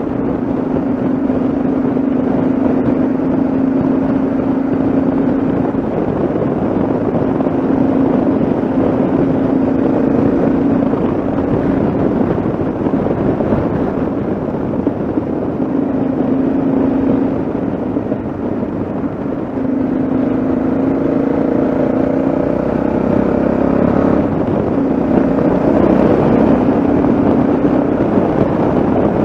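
Yamaha XT660Z Ténéré's single-cylinder engine running at road speed, with wind rushing over the microphone. The engine note drops briefly about two-thirds of the way through, then comes back and shifts up and down in pitch as the throttle changes.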